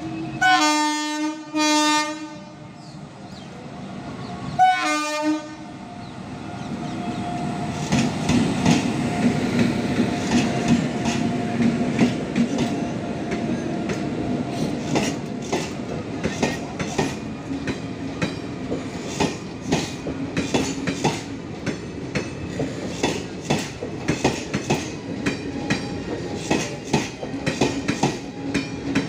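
Indian Railways passenger train: the locomotive horn sounds twice in quick succession, then once more briefly about five seconds in. From about seven seconds in, the train runs close past, its coach wheels clicking and clattering over the rail joints.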